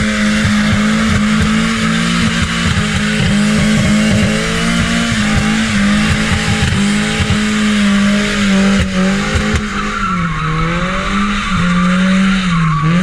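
Car engine held at high revs while the tyres screech in a long slide, as in drifting; near the end the revs drop and climb back twice.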